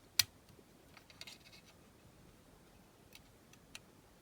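Small plastic and metal model-car parts being handled: one sharp click right at the start, then a few light clicks and rattles about a second in and two faint ticks later.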